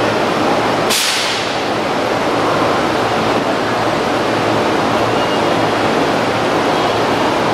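JR East E231-800 series commuter train standing at an underground station platform: a steady wash of noise, with a short sharp burst of air hiss about a second in that quickly dies away.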